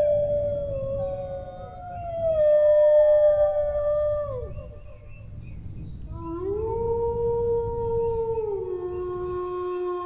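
Dog howling: long drawn-out howls, each held on one pitch and sliding down at the end, with a new, lower howl starting about six seconds in. A low background rumble runs underneath.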